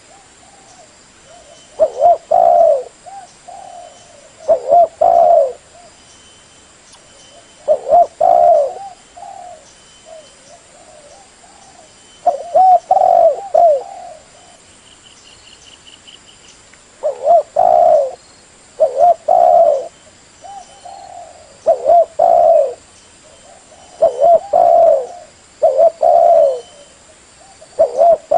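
Spotted dove cooing: phrases of two or three low, rolling coos repeated every few seconds, a call used as a lure to attract other spotted doves.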